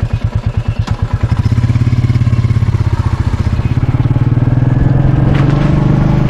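Royal Enfield Meteor 350's single-cylinder engine ticking over with an even thump, then a click about a second in, after which the engine picks up and pulls away, running louder and smoother as the bike gets under way.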